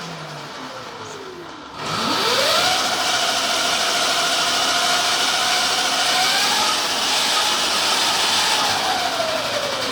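2 kW electric motor of a Deller 850240 electric pit bike whining as it spins up. The pitch climbs quickly about two seconds in, holds steady for several seconds, then slowly falls away as the motor winds down.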